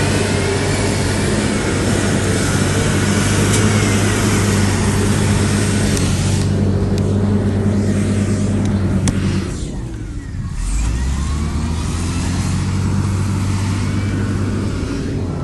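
Heavy diesel engine of earthmoving machinery running steadily, with a brief dip about ten seconds in before it picks up again.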